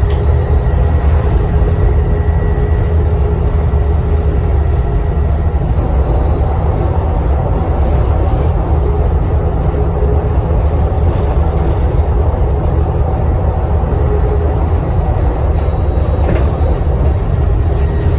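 Volvo B7TL double-decker bus's six-cylinder turbodiesel engine running steadily under way, heard from inside the bus as a heavy rumble, with a thin, high turbocharger whistle over it, clearest in the first few seconds.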